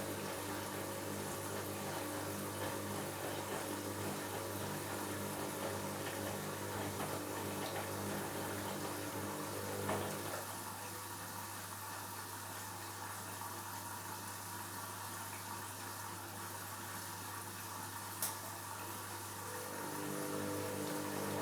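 Washing machine running a wash: the drum motor hums with a steady tone, stops with a short click about halfway through, and starts turning again near the end.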